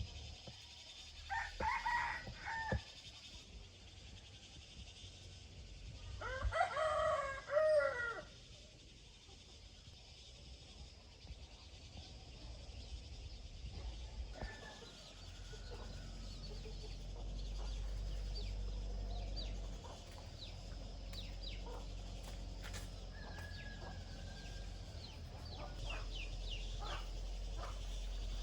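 A rooster crowing twice, a short crow then a longer one, followed by faint short high chirps over a low steady hum.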